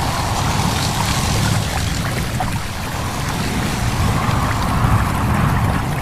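Stream babbling over stones, with wind blowing through leaves. It is a continuous wash of water with small trickles and splashes, swelling and easing slightly.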